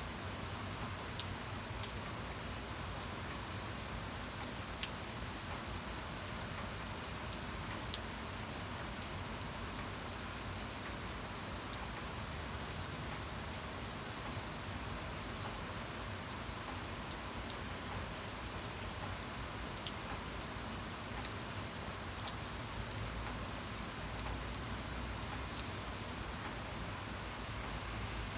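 Steady rain falling on a surface, an even hiss with scattered sharper drop impacts.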